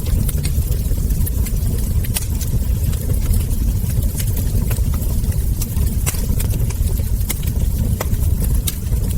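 Wood fire crackling: frequent irregular sharp pops and crackles from the burning logs over a steady low rumble.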